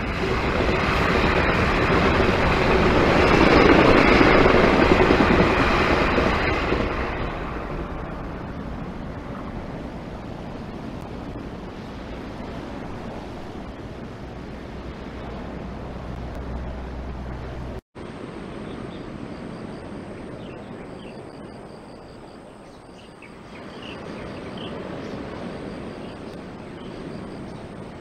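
Passenger train rolling past on the rails, loudest about four seconds in and fading away over the next few seconds into a low rumble. After an abrupt break near the middle, a quieter steady background of surf with a faint high insect buzz.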